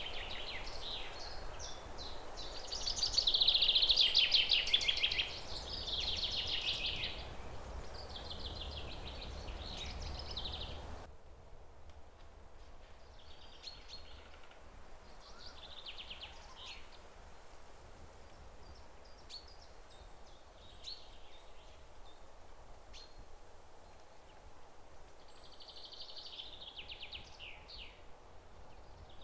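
Songbirds singing in short chirping phrases, loudest a few seconds in, over a steady low background noise that cuts off abruptly about eleven seconds in. After that, sparser calls and another song phrase near the end.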